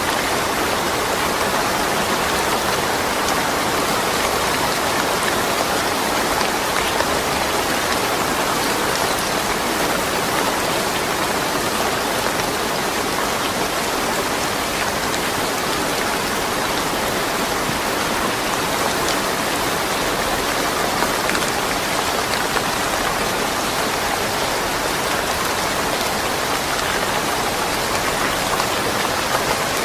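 Steady rain falling, an even hiss with faint scattered drop patter and no thunder.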